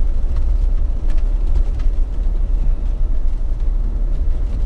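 Jeep driving on snowy, icy town streets: a steady low rumble of engine and tyre noise, with a few faint clicks.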